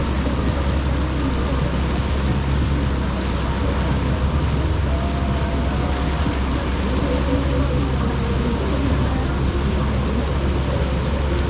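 Jet ski engine running steadily under way, with a constant rush of water and wind noise.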